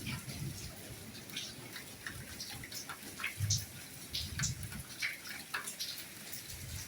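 Soft rainfall: a steady hiss with many individual drops ticking irregularly, and a few dull low thuds about halfway through.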